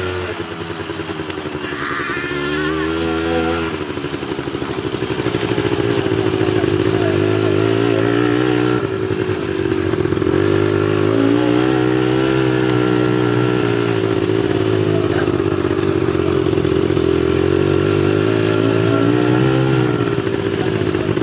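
ATV engine running under throttle, its pitch rising and falling as the rider speeds up and eases off, getting louder about four seconds in.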